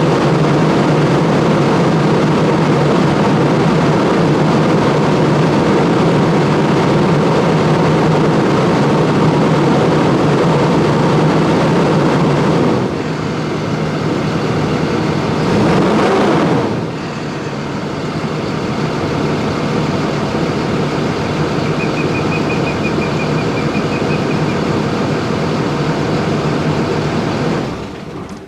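Cummins ISB 6.7 diesel of a 2015 Thomas Saf-T-Liner C2 school bus running steadily, heard through its exhaust. About halfway through the sound drops, then briefly rises and falls in pitch, runs quieter and dies away near the end.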